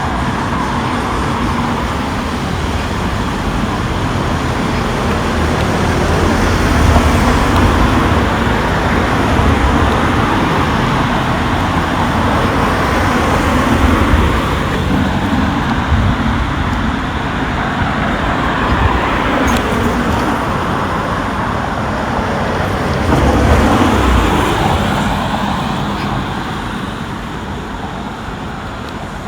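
Road traffic: a steady wash of tyre and engine noise as several vehicles pass one after another, each swelling and then fading.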